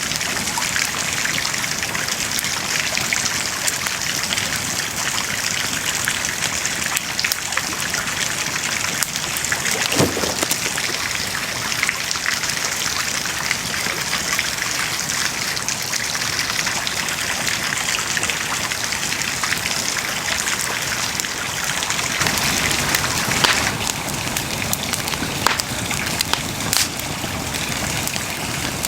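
Wood bonfire burning: a steady hiss with frequent crackles and snaps, and a few louder pops near the end.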